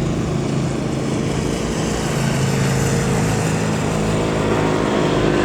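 Jet airliner engines running with a steady, loud rush, with several steady low hum tones beneath it.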